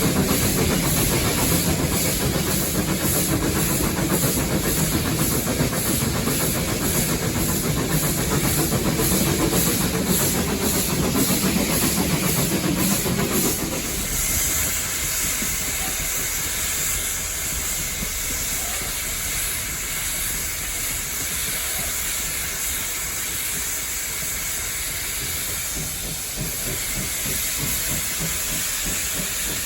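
Steam locomotive heard from the cab: steady steam hiss over the low rumble of the locomotive on the move. About halfway the rumble drops off suddenly, leaving mostly the hiss.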